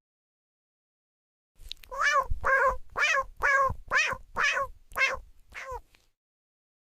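A cat meowing over and over: about nine short meows, roughly two a second, starting about a second and a half in and stopping near the end.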